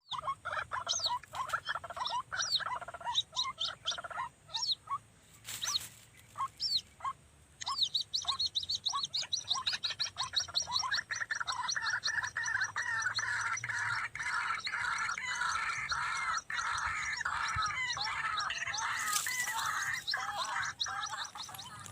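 White-breasted waterhen (ruak-ruak) calling: quick, repeated harsh notes, the lure call used to attract the bird. The calling thickens into a dense, unbroken run about halfway through.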